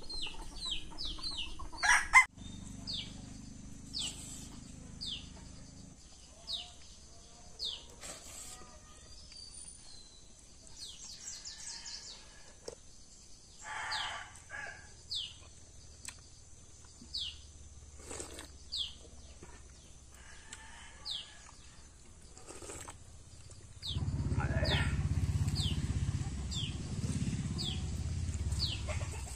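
A bird calling outdoors with short, high, falling chirps repeated about once a second. There is a sharp louder noise about two seconds in, and a low rumble in the last few seconds.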